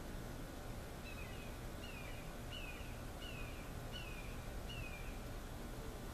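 A bird calling: six short downslurred notes, each about two-thirds of a second after the last, over a steady hiss.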